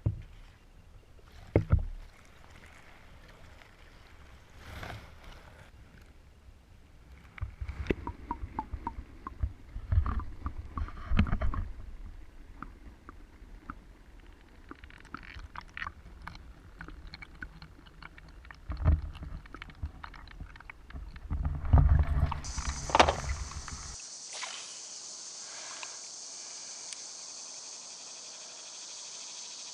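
Sounds of a kayak being handled on the water: irregular knocks and bumps against the hull with low rumbling bursts. About three-quarters of the way in, these give way to a steady, high insect chorus.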